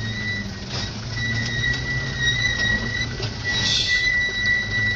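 Mitsubishi Canter truck loaded with sand running with a low engine hum, with a steady high-pitched whine over it that drops out briefly about a second in, and a short hiss a little under four seconds in.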